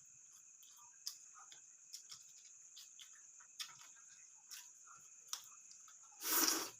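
Mouth sounds of eating rice and curry: soft scattered clicks and smacks of chewing, over a steady faint high hiss. Near the end comes one short, loud, breathy burst lasting about half a second.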